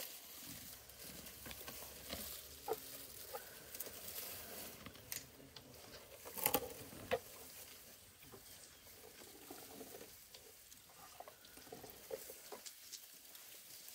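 Dry grass and brush rustling and crackling, with scattered small snaps of twigs and a louder cluster of cracks about halfway through, as elephants and people move through dry bush.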